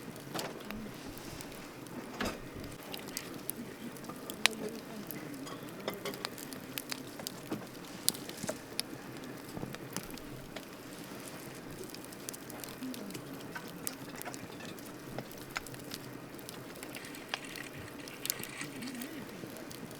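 Wood campfire burning, crackling steadily with irregular sharp pops over a low hiss; the loudest pops come about four and a half and eight seconds in.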